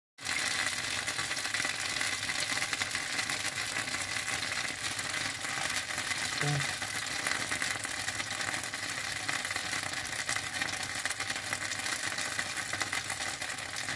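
Dumplings pan-frying in oil in a non-stick frying pan: a steady sizzle with fine crackling throughout.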